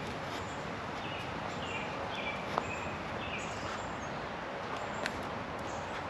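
Birds calling in a series of short whistled notes over a steady outdoor hiss, with a single sharp click about two and a half seconds in.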